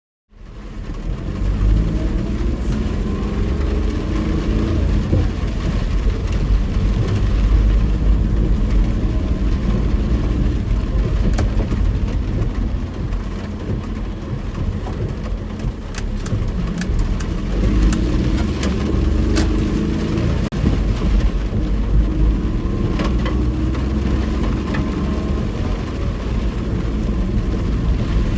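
Car interior while driving: a steady low rumble of engine and road noise, with the engine pitch rising as the car accelerates a couple of times. Scattered sharp clicks are heard from about ten seconds in.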